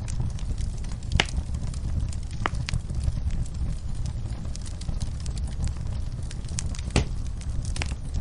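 Wood fire burning in a fireplace: a steady low rumble of the flames with scattered sharp crackles and pops, a few of them louder.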